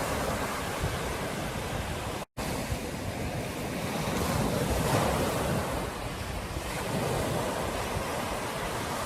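Ocean surf breaking on a beach, a steady rush with a wave swelling louder about four to five seconds in, and wind buffeting the microphone. The sound cuts out completely for a split second a little over two seconds in.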